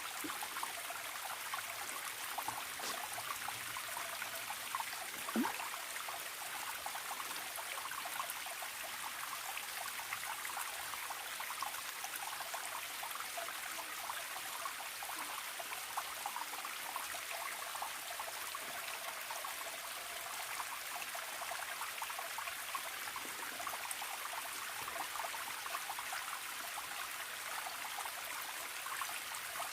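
Forest stream trickling steadily, with many small splashes and one brief louder plop about five seconds in.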